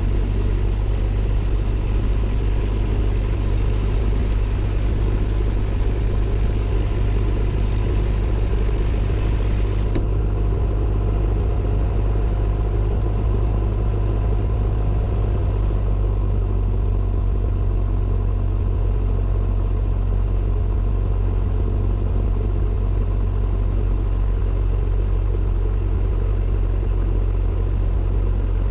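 Cessna 172N's four-cylinder Lycoming engine and propeller running steadily, a loud constant drone heard from inside the cockpit. A higher hiss over the drone drops away about ten seconds in.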